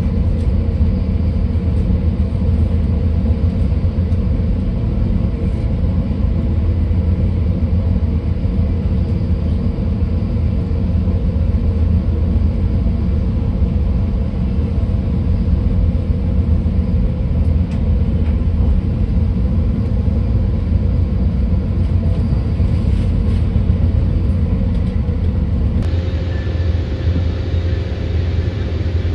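Steady low rumble of a passenger train in motion, heard from on board, with the wheels running on the rails; the sound shifts slightly near the end.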